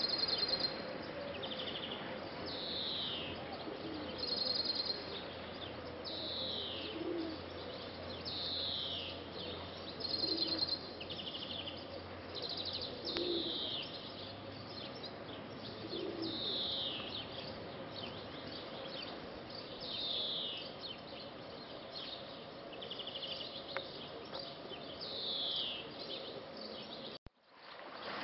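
Birds calling over and over outdoors: short high chirps that fall in pitch and quick trills every second or two, with a few low cooing notes in the middle, over a steady background hiss. The sound cuts out briefly about a second before the end.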